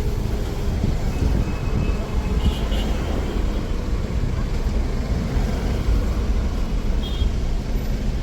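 Steady low rumble of road traffic on a city street, even in level throughout. Faint short high squeaks or chirps sound about two and a half seconds in and again near the end.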